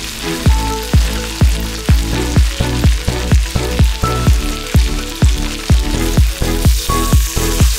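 Sliced potatoes, pork and peppers sizzling in oil in a wok, under background music with a steady drum beat of about two beats a second that comes in about half a second in and is the loudest sound.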